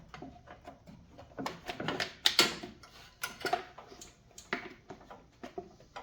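Irregular clicks, knocks and light metal clatter of hand work with tools and parts, loudest about two seconds in.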